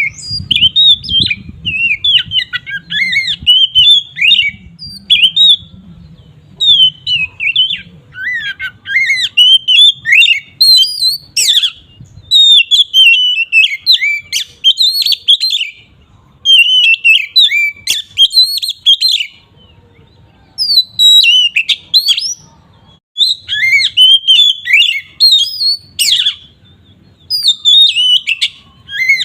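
Oriental magpie-robin (kacer) in loud, full song: quick runs of varied sweeping chirps and whistles, delivered in phrases of a second or a few seconds with short pauses between.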